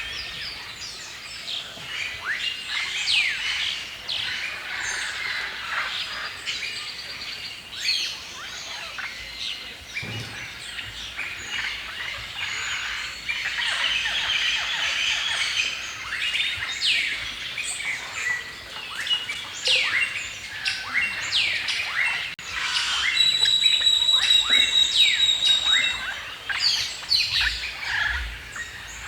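Several songbirds chirping and singing together in a forest chorus: many quick, overlapping downward-sweeping chirps and whistles, with one bird repeating a steady, high, rapid trill for a few seconds just past the middle.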